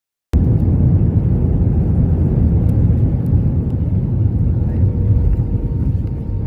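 Steady low rumble of an airliner cabin in flight, with a faint steady whine running under it. It cuts in suddenly just after the start.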